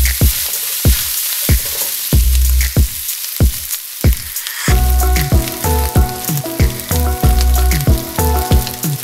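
Par-cooked basmati rice sizzling as it is stir-fried in hot oil in a wok with a wooden spatula, a steady hiss. Background music with a steady beat plays over it, and a melody comes in about halfway through.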